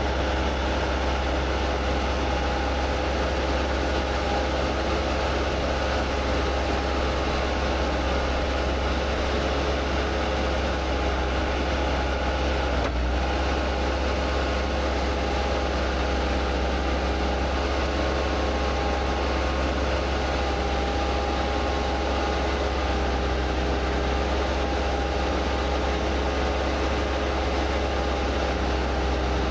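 Skid steer engine running steadily at an even speed, a constant low drone with a steady hum above it.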